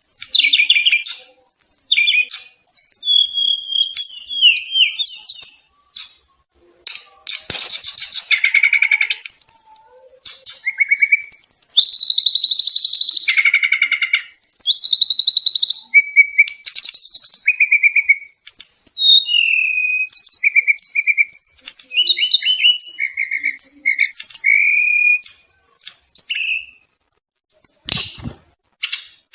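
Brown-chested jungle flycatcher (sikatan rimba dada coklat) song in a fast 'tembakan' delivery: a dense string of quick chirps, rapid trills and short whistled phrases with brief gaps, mixed with the song of an alang-alang bird.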